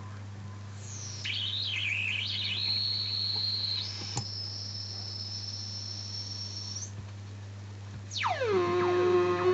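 Homemade kit-built oscillator noise box sounding a high whistling tone. The tone wobbles up and down, settles, jumps higher about four seconds in and holds, then stops, all over a steady low hum. Near the end a buzzier tone swoops steeply down in pitch as a knob is turned.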